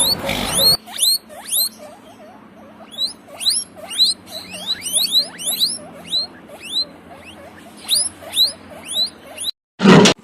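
A small animal's rapid, high-pitched squeaks: many short chirps, each falling in pitch, repeated irregularly about twice a second. Near the end the sound cuts out briefly and a short loud burst follows.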